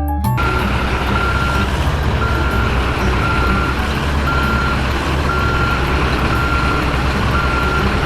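A truck's reversing alarm beeps about once a second over a steady engine rumble.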